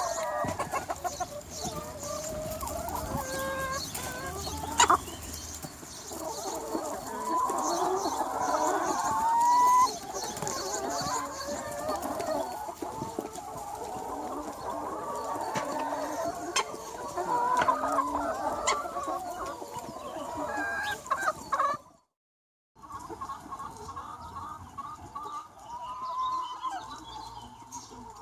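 A large free-range flock of hens clucking and calling over one another in a dense, steady chorus. The sound drops out to silence for under a second about two-thirds of the way through, then the clucking resumes.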